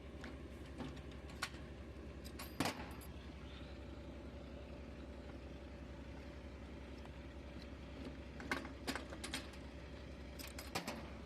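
A diesel truck engine running steadily with a low, evenly pulsing hum, with a few sharp metallic clinks and rattles over it: one pair early and a cluster near the end.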